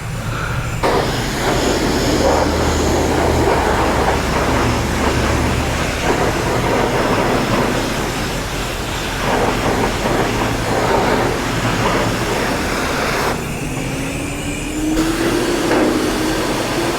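Car-wash high-pressure rinse wand spraying water onto a motorcycle, a dense hiss over a low pump hum. The spray stops for a moment about thirteen seconds in, then starts again.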